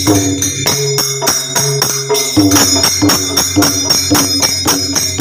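Devotional folk music played without singing: jhal hand cymbals clashing in a steady rhythm, about three to four strikes a second, over a hand drum and a sustained low pitched tone.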